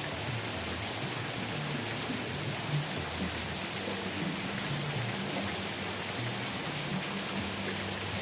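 Steady rain falling, an even hiss with a low, uneven rumble underneath.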